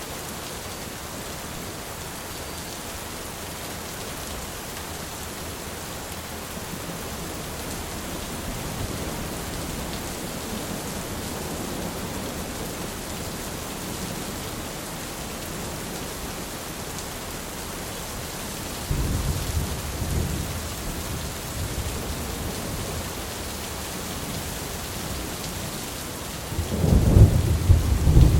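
Steady heavy rain with thunder: a low rumble rolls in about two-thirds of the way through, and a louder, closer clap of thunder breaks near the end.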